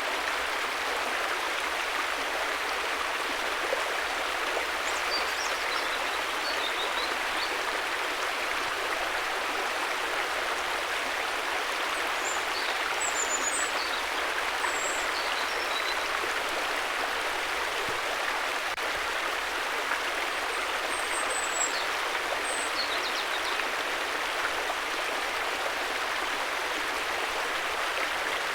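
Steady, unbroken rush of a flowing river. Faint high chirping comes through three times: early, in the middle and about three quarters of the way in.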